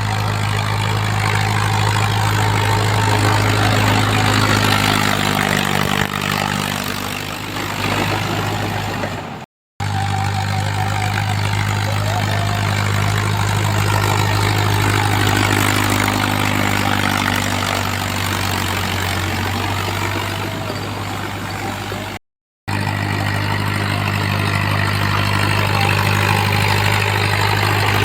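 Mahindra tractor's diesel engine running steadily with a deep, even hum. The sound cuts off abruptly for a moment twice.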